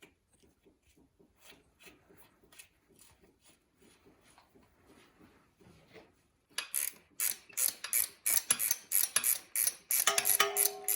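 Faint clicks of a nut being run onto a dirt bike's rear shock mounting bolt, then, about six and a half seconds in, a ratchet wrench being cranked in quick, even strokes to run the nut down.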